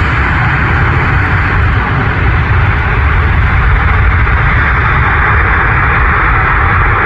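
Loud, steady roar of a landing aircraft's engines passing close by, with a heavy low rumble.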